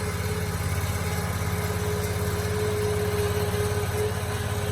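Small loader's engine running steadily, with a steady whine held over the engine note.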